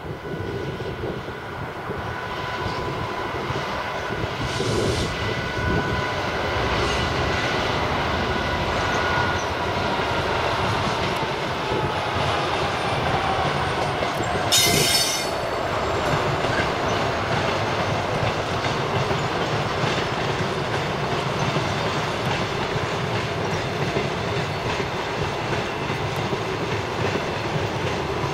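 Class 66 diesel locomotive with an EMD two-stroke V12 hauling a train of empty steel wagons slowly past: a steady engine and wheel rumble, with thin squealing tones from the wheels, one sliding down in pitch. About halfway through there is a brief shrill screech, the loudest sound.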